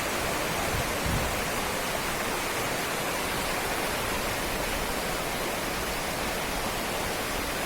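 Steady rush of water: an even hiss of heavy rain or flowing floodwater, unchanging throughout.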